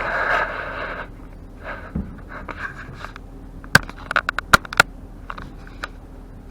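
Things being handled and knocked about: a rustling scrape at the start, then a quick run of sharp knocks and clicks about four seconds in.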